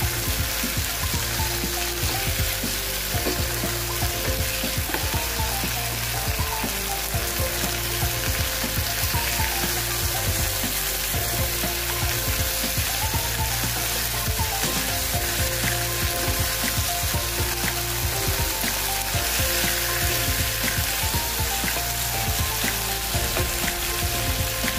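Chicken wings sizzling in a frying pan as the adobo sauce cooks down to a glaze, stirred and turned now and then with a wooden spatula. Background music with held notes plays underneath throughout.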